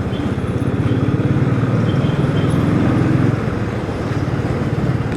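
Royal Enfield Thunderbird's single-cylinder engine running while the motorcycle rides through city traffic, its low pulsing exhaust note a little louder for the first three seconds, then easing off.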